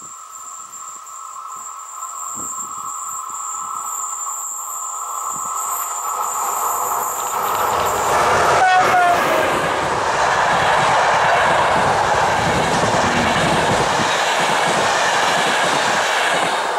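Intercity train hauled by an E401 electric locomotive approaching and passing at speed: the rolling noise builds steadily and is loudest as the locomotive passes about eight seconds in, when a brief horn note sounds. The coaches then rumble and clatter by until the train is gone, just before the end.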